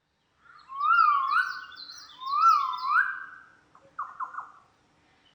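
A bird singing two clear whistled phrases, each gliding up and down in pitch, followed by a few short falling notes.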